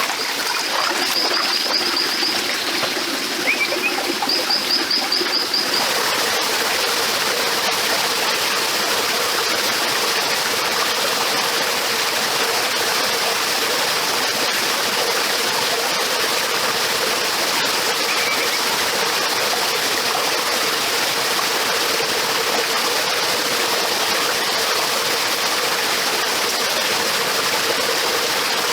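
Steady rush of flowing stream water. Twice in the first few seconds a bird gives a short, high trill over it.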